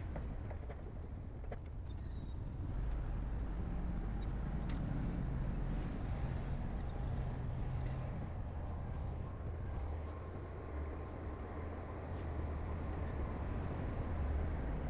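Heavy earthmoving machinery's diesel engine running with a steady low drone, and a few faint clicks.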